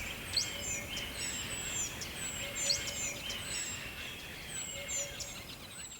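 Forest birds chirping and singing: many short, high, falling chirps over a busier chorus of lower trills, with a steady background hiss.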